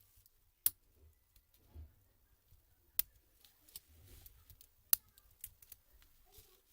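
Sharp plastic clicks and small ticks from laptop keyboard parts being handled and taken apart: three loud clicks about two seconds apart, with lighter ticks and faint rustling between.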